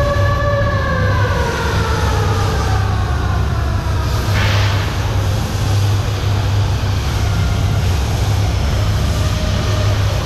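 Steady low drone of ship engine-room machinery, with a whining tone that slowly falls in pitch and rises again near the end, and a short hiss about four and a half seconds in.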